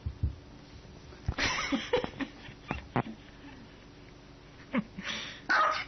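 Small dog barking: a couple of sharp barks about a second in and again near the end, with a few light knocks between.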